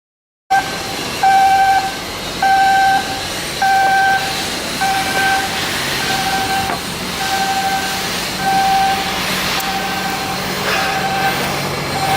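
Warning beeper sounding in a regular pattern, one steady beep about every second, over the general noise of heavy shipyard machinery.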